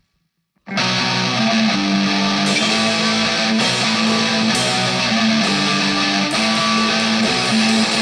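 Rock song intro: an electric guitar riff starts abruptly under a second in after a moment of silence and repeats steadily.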